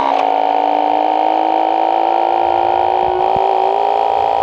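Motorcycle engine drone held at steady revs while doing a wheelie, its pitch climbing slowly and evenly.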